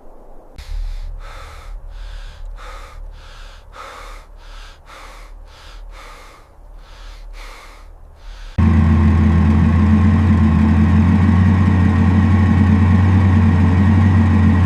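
A run of short scuffing strokes, about two a second, over a low rumble. About eight seconds in, a loud steady engine drone cuts in abruptly and holds.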